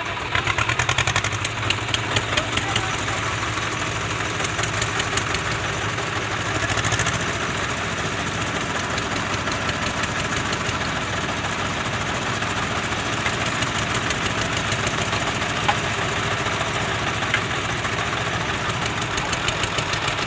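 Tractor diesel engines running with a fast, even knocking beat, a little louder in the first few seconds.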